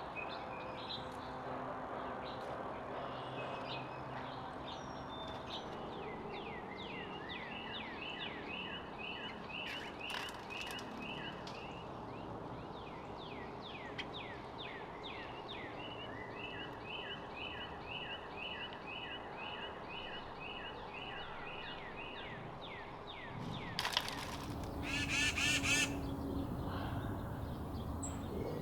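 Backyard songbirds: a bird sings two long songs of quickly repeated, down-slurred notes. Near the end, louder harsh calls break in.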